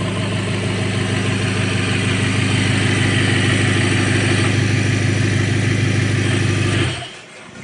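A car engine running loud and steady at an unchanging speed, cutting off suddenly near the end.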